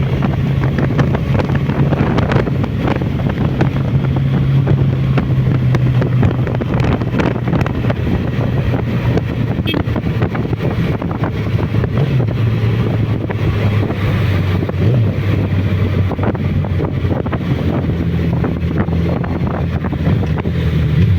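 Suzuki Bandit motorcycle's inline-four engine running at a steady pitch while riding, with wind buffeting the microphone. The engine note dips slightly around the middle and comes back up near the end.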